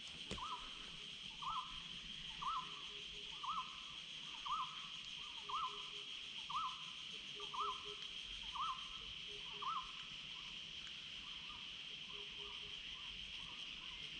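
An animal calling with a short rising note about once a second, ten times, then fainter calls carrying on. Under it runs a steady high drone of insects.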